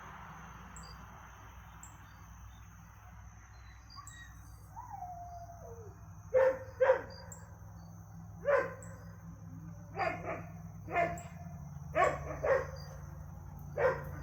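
A dog barking: a falling whine about five seconds in, then about nine short barks over the last eight seconds, several in quick pairs.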